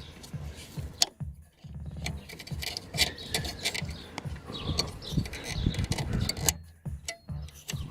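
Hands working a plastic holder loose in a car's engine bay: irregular plastic clicks, knocks and rattling as it is handled and pried.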